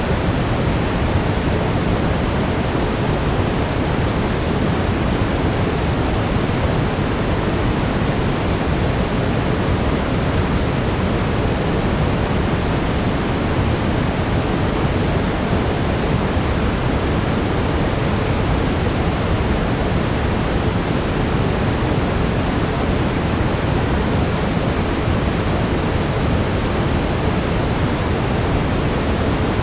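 Steady brown noise: an even, unchanging rush, heaviest in the low end.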